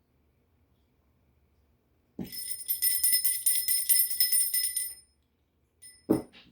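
Small bells jingling, shaken rapidly for about three seconds, then two short knocks near the end.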